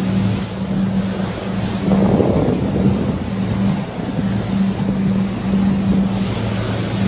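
Boat engine running with a steady low hum, under wind buffeting the microphone and water noise; a louder gust about two seconds in.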